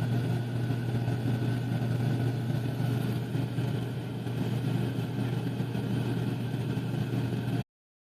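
A steady low engine drone running evenly, which cuts off suddenly near the end.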